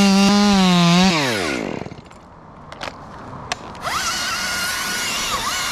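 Chainsaw at full throttle, its pitch held high and wavering slightly, then let off and winding down about a second in. After a short lull with a few clicks, a thin high whine starts with a rising glide near the four-second mark and runs on, wavering.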